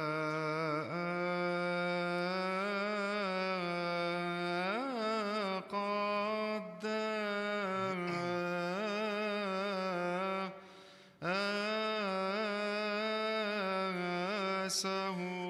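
Male voice chanting a long melismatic Coptic liturgical melody, drawn-out vowels with ornamented turns in the pitch. It breaks off briefly for breath about ten and a half seconds in, then carries on.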